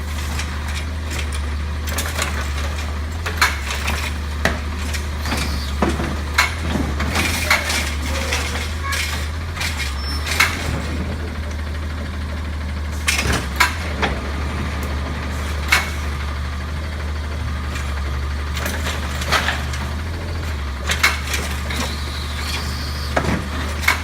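Garbage truck engine running steadily, with frequent sharp clanks and knocks scattered throughout.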